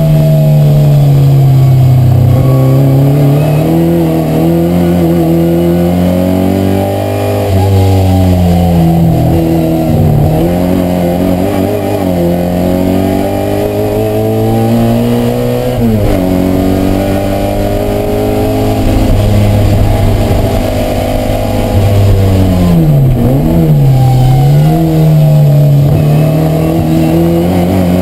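A historic Mini Cooper race car's engine, heard from inside the cabin at full racing pace. It revs up hard through the gears, and its pitch drops sharply at each of several gear changes, about a third of the way in, about halfway, and again around three-quarters of the way through.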